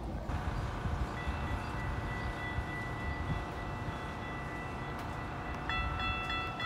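Low rumble of an approaching train, with a steady high warning tone starting about a second in. A second set of high tones, sounding with short regular breaks, joins near the end.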